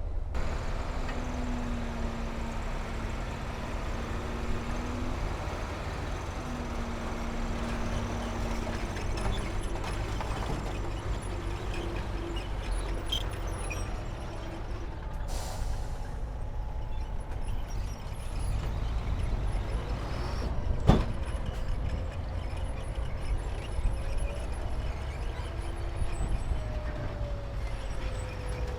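Heavy diesel earthmoving machinery running with a steady low rumble, its engine note shifting in pitch as it works. There is a short hiss about halfway through and a single sharp clank a few seconds later.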